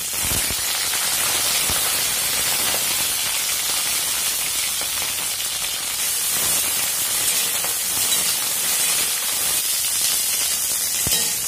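Cauliflower florets sizzling steadily as they fry in hot mustard oil in a steel kadai.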